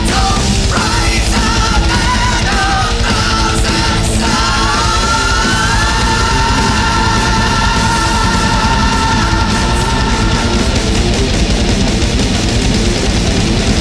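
Loud heavy rock music with a dense band sound. About four seconds in, a long high note slides upward and is held until about ten seconds.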